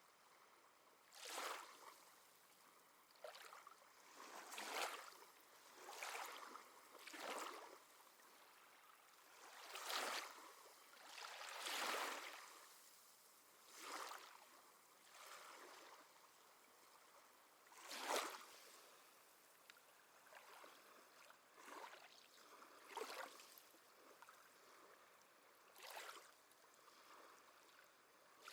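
Small sea waves lapping and washing at the shore, a short faint slosh every second or two with a low hiss of water between.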